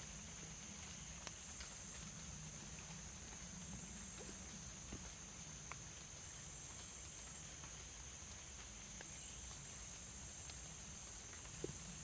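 Rain-soaked forest ambience: a steady high-pitched insect drone, with a few faint scattered clicks, the sharpest one near the end.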